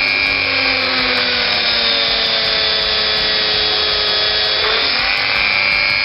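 Dremel rotary tool running and grinding into a diecast metal toy car; its steady whine sags in pitch as the bit bears into the metal and picks back up just before the end as the load comes off.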